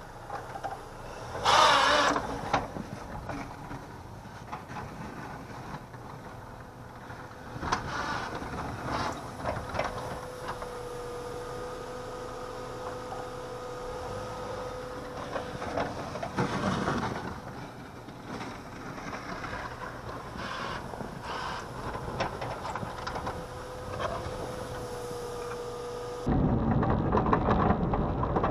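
Dodge Neon plow car's engine running under load as it pushes snow, with a steady whine and several loud surges of revving and scraping. About two seconds before the end it cuts abruptly to a louder, dense rushing sound.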